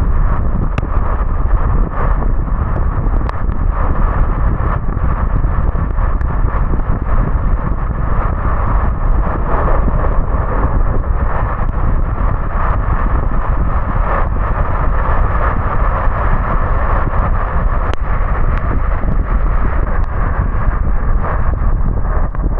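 Steady road and wind noise of a car driving on wet roads in the rain, a continuous low rumble with scattered faint ticks.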